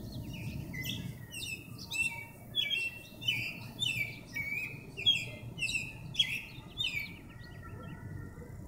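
Songbird singing from a treetop: a long run of loud, quickly repeated chirping phrases that stops about seven and a half seconds in. A low steady rumble lies underneath.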